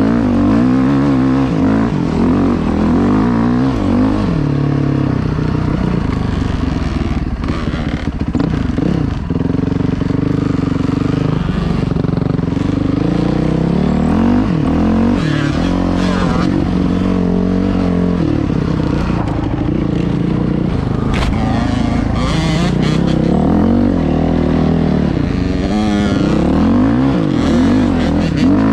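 Dirt bike engine running under load on an off-road ride, its pitch climbing and dropping again and again with throttle and gear changes.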